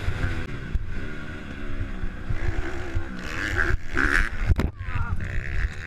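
Motocross bike engine revving up and down as it is ridden, its pitch rising and falling, with wind buffeting the camera microphone. There is a sharp knock about four and a half seconds in.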